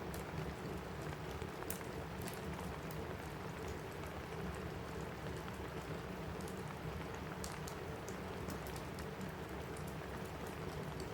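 Steady rain on a roof with a crackling wood fire: an even rain hiss broken by scattered sharp pops and crackles.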